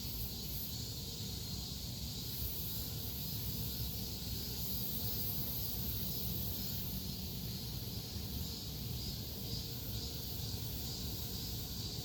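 Steady outdoor background noise: a low rumble under a high, even hiss, with no distinct calls or knocks.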